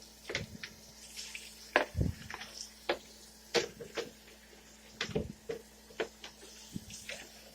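Water splashing and sloshing, with irregular knocks of a container being handled, as it is rinsed out.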